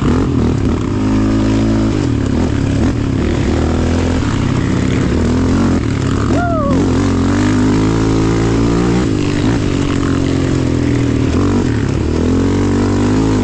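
Off-road engines running under riding load, their pitch rising and falling repeatedly as the throttle is worked. They are most likely the single-cylinder engines of Yamaha Raptor 700R quads.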